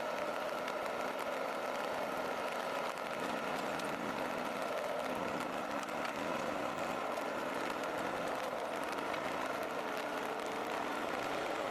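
Heavy diesel forestry machine engine running steadily, with no change in speed or load.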